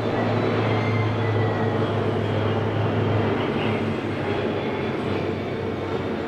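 Boeing 777 freighter's GE90 jet engines: a steady roar with a faint high turbine whine, easing off a little in the second half.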